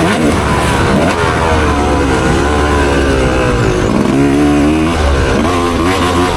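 Motocross dirt bike engine revving hard under racing throttle, its pitch climbing and falling repeatedly as the rider opens and chops the throttle and shifts, with a sharp drop and climb again about four seconds in.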